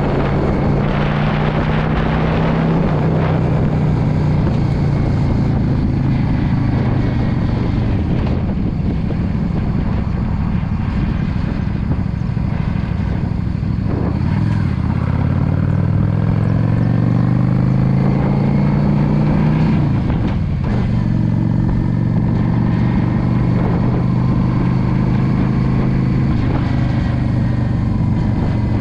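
2016 Yamaha V Star 650's air-cooled V-twin engine running under way, with road and wind noise. About halfway through, the engine pitch rises steadily as the bike accelerates, then drops suddenly at a gear change and holds steady.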